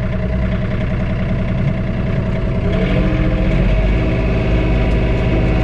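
John Deere 3046R compact tractor's three-cylinder diesel engine running steadily, heard from inside the closed cab; its note shifts and grows slightly louder about three seconds in.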